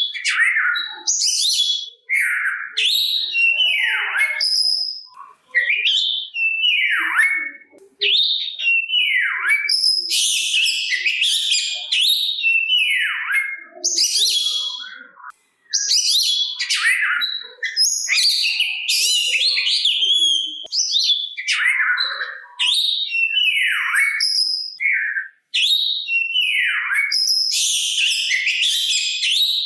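Oriental magpie-robin (kacer) singing a continuous, varied song: quick short phrases, many of them whistles sliding down in pitch, with brief pauses between them.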